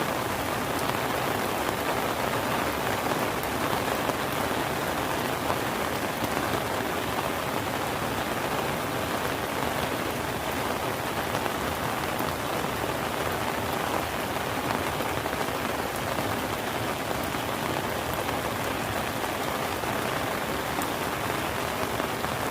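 Steady rain falling, a dense even patter of drops on surfaces that holds at a constant level.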